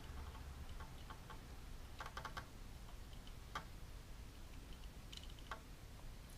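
Faint, scattered light clicks and ticks of small hand work on a wiring joint during soldering, including a quick run of about four clicks around two seconds in, over a steady low hum.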